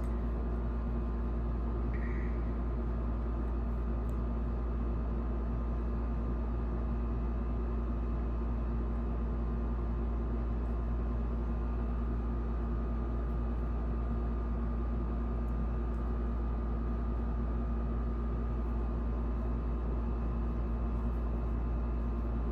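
A steady machine hum: a low drone with several fixed tones above it, unchanging throughout.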